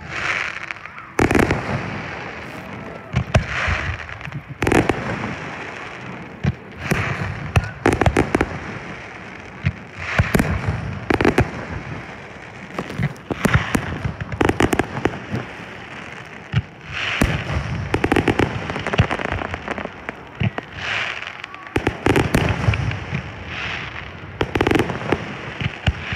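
Aerial fireworks shells bursting one after another, with sharp bangs in quick clusters every second or two and echoing rumble between them.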